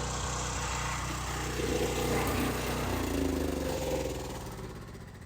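Motor-driven blower used to dry a truck, running steadily and then shut off, winding down and fading about four seconds in.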